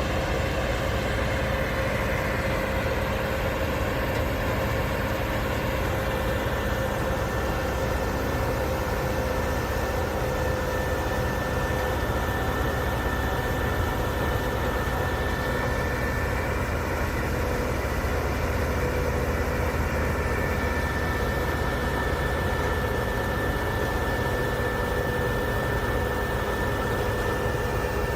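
Heavy diesel engine of a large wood grinder running steadily, a constant low drone with a thin steady whine above it.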